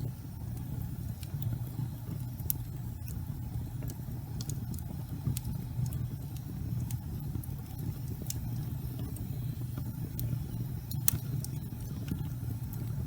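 Fireplace fire burning: a steady low rumble of flame with scattered sharp crackles and pops, the loudest pop about eleven seconds in.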